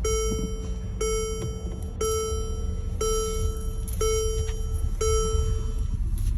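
An electronic beeper sounds six evenly spaced, buzzy beeps, about one a second, each held nearly a second. A steady low engine rumble runs underneath.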